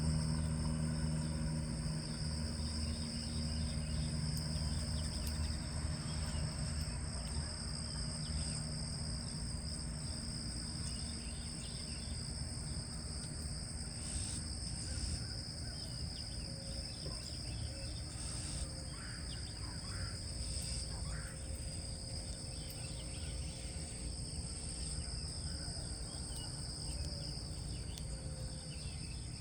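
Steady outdoor insect chorus, a continuous high-pitched trill at two pitches, with a few short bird chirps scattered through it. A low hum underneath is strongest in the first couple of seconds and then eases off.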